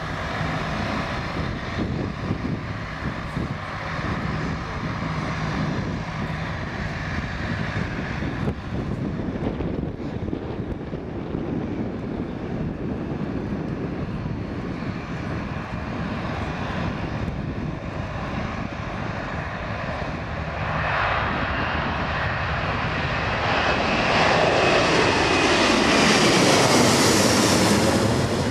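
Airbus A330-300's twin Pratt & Whitney turbofans at takeoff power, a steady jet roar that swells from about two-thirds of the way in and is loudest near the end, with a sweeping shift in tone as the airliner passes close by on its departure.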